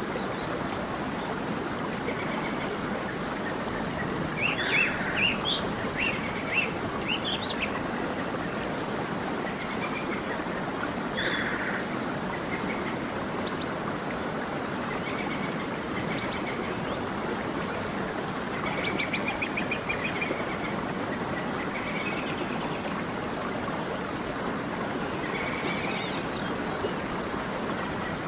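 A creek running steadily, with small birds chirping and trilling over it: a quick run of chirps a few seconds in, more calls near the middle and a short trill about two-thirds of the way through.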